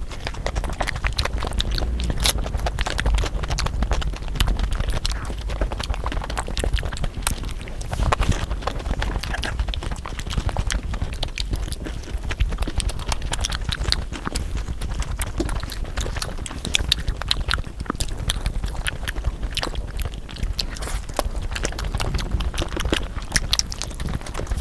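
Close-miked chewing and eating mouth sounds: a dense run of quick, irregular wet clicks and smacks.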